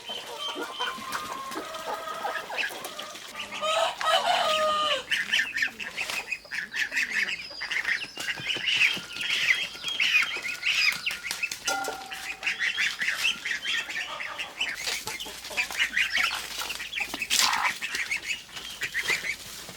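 A flock of chickens clucking and calling throughout, with a louder drawn-out call about four seconds in.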